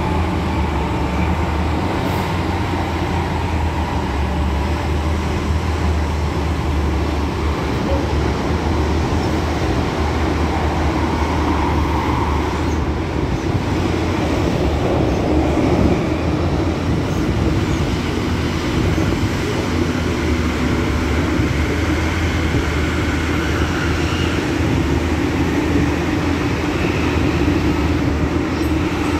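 Interior running noise of an MTR Tung Chung Line Rotem K-Train travelling at speed: a steady low rumble of wheels on track, with a faint low hum coming in during the second half.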